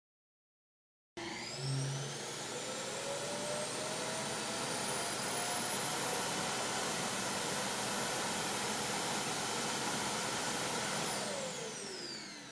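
iRobot Roomba i7+ Clean Base auto-empty dock's suction motor, loud, sucking the robot's bin contents into the bag in the stand. It starts abruptly about a second in with a whine that rises as the motor spins up, runs steady, then winds down with a falling whine near the end.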